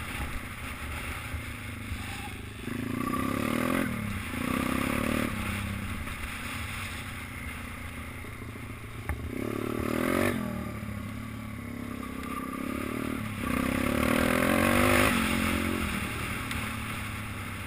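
Small minibike engine revving up and easing off about four times over the stretch, its pitch rising and falling as the throttle opens and closes, with a steady rushing noise underneath.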